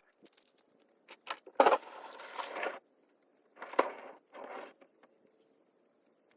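Handling sounds: a few sharp knocks and clicks, the loudest about one and a half seconds in and another near four seconds, with short bursts of scraping and rustling between them.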